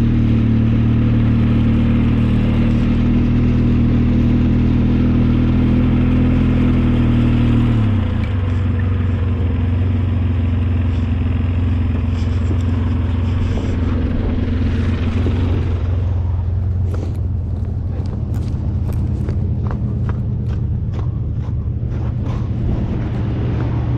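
Snowplow vehicle's engine running steadily while plowing. Its pitch drops about 8 seconds in, and from about 16 seconds on a run of clicks and knocks comes over the engine.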